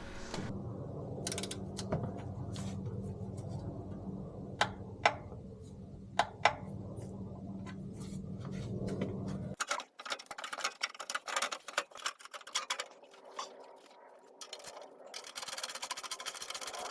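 Torque wrench ratcheting and clicking as the oil drain plug is tightened to its set torque. A few sharp single clicks come in the first half over a steady low hum. After a cut just past the middle, the clicking turns rapid and dense.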